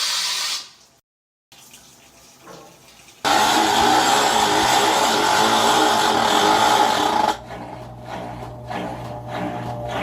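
Washing machine running, with water rushing and a steady motor hum, heard in short cut pieces; it is loudest from about three to seven seconds in.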